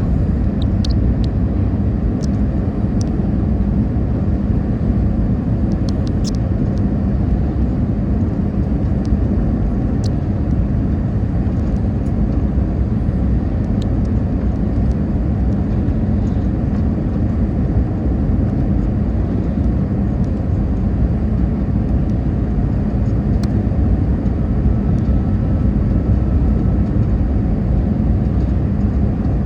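Steady low rumble of engine and airflow noise inside the cabin of an Airbus A320 airliner in flight or on the runway.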